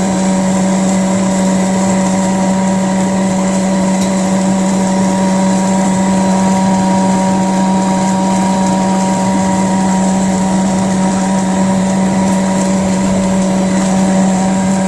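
Homemade bottle vacuum cleaner running steadily on its 13000 rpm 12 V DC motor: a loud, even motor hum with a high whine above it.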